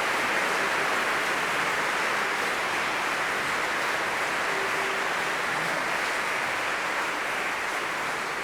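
Audience applauding: a steady, dense clatter of many hands clapping that eases off a little near the end.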